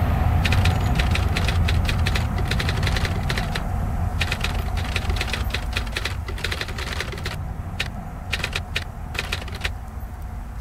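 Low rumble of an ICE high-speed train that has just passed, fading away, with clusters of irregular sharp clicks over it that stop shortly before the end.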